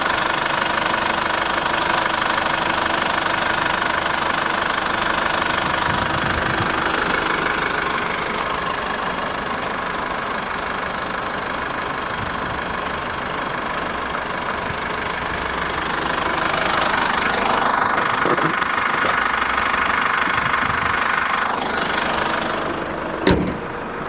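Chevrolet Orlando's 2.0 VCDI turbo-diesel engine running steadily at idle with the bonnet open. There is a single sharp knock near the end.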